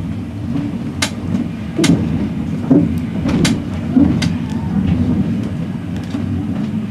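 Heritage railway carriage on the move, heard from inside: a steady low rumble with a few sharp clicks and knocks from the wheels and carriage running over the track.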